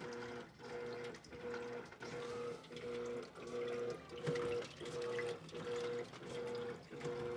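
Electrolux LED14 washing machine agitating: its motor hums in short, even pulses, about two a second, over the sound of water moving in the tub.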